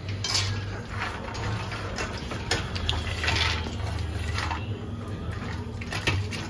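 Almonds sizzling as they fry in hot ghee in a stainless-steel kadai, stirred with a slotted steel spoon that clicks against the pan a few times, over a steady low hum.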